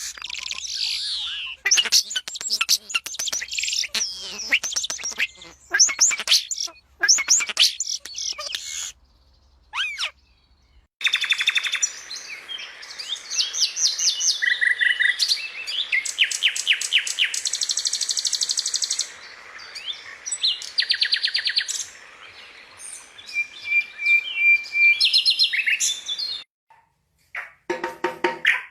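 Small birds singing, one song after another: rapid trills and fast repeated high notes, with a held whistle near the end. The songs change abruptly every few seconds, with a short pause about ten seconds in.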